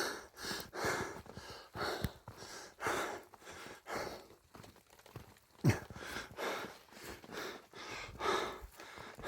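A person breathing heavily in distress, with sighs and gasps about once a second, and one brief louder low sound a little past halfway.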